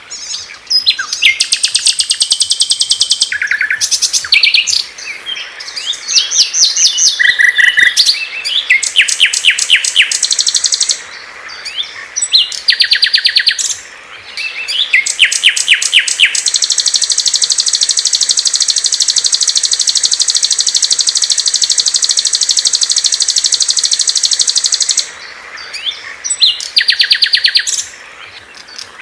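Small songbirds singing loud, clear, high phrases one after another, mostly fast runs of rapidly repeated notes with short pauses between them. From about the middle, one long, steady trill runs for roughly nine seconds before the short phrases return near the end.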